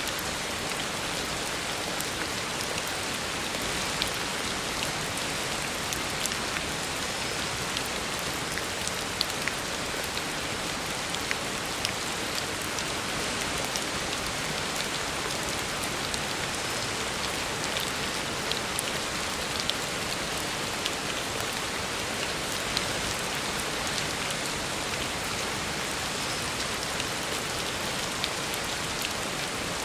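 Heavy rain falling steadily on a road, an even hiss with scattered sharp drop ticks.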